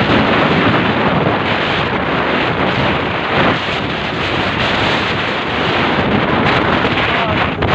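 Loud, steady wind buffeting the microphone on a moving motorcycle.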